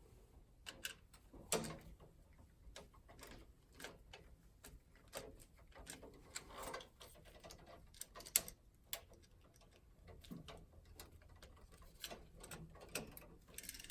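Faint, scattered small clicks and taps of hand tools and copper wire being worked at an electrical box's terminals, while a ground wire is jumped on.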